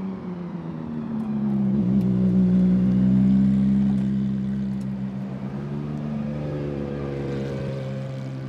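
Gordon Murray T.50's Cosworth V12 running at low revs as the car drives by, swelling to its loudest about three seconds in and then fading, its pitch lifting slightly near the end.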